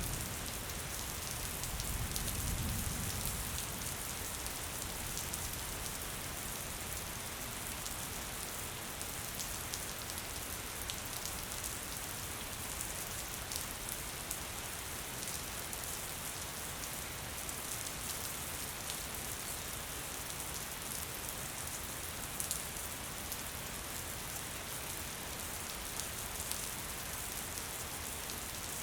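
Gentle rain falling steadily, with scattered drop ticks throughout and a brief low rumble about two seconds in.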